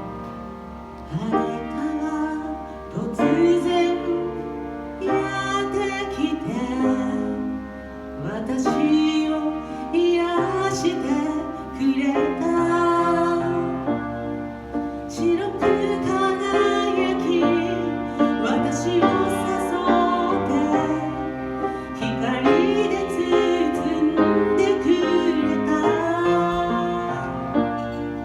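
A woman singing a slow ballad, with piano accompaniment.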